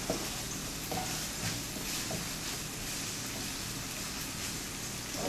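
Chopped vegetables (bell peppers and onion) sizzling steadily in hot oil in a pan, with a few faint clicks.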